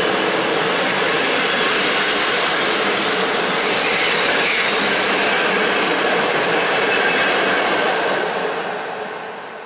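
Passenger coaches of a train rolling past on the rails, a steady noise of wheels on track that fades away as the last coach goes by, from about eight seconds in.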